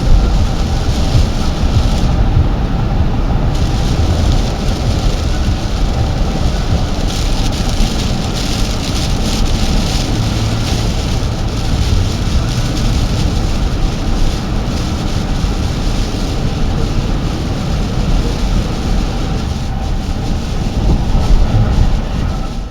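Heavy downpour: a loud, steady rush of rain with a deep rumble underneath, cutting off abruptly at the end.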